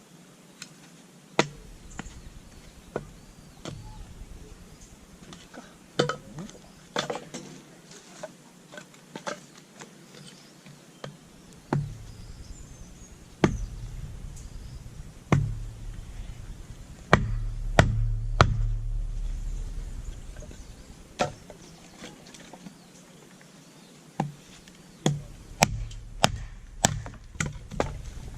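Firewood being split by hand: a series of irregular sharp knocks of a blade on wood, with a quicker run of knocks near the end.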